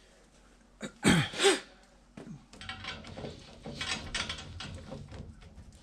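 Scattered light clicks and knocks of parts and tools being handled, with one short pitched squeak-like sound about a second in.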